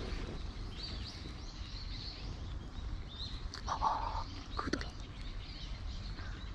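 Small birds chirping repeatedly in short, high calls over a steady low background rumble, with a brief louder noise near the middle.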